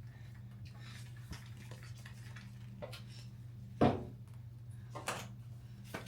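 A steady low electrical hum with soft handling clicks, and one sharp knock a little before four seconds in, followed by a lighter one about a second later.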